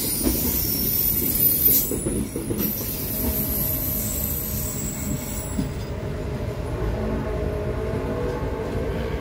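Passenger train cars rolling slowly through the station while being shunted, with high-pitched wheel squeal over a low rumble; the squeal fades about six seconds in.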